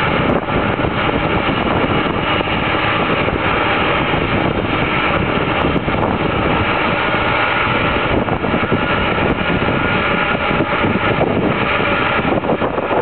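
Jet engines of a Boeing 747 LCF Dreamlifter running loud and steady, a dense even roar with no breaks.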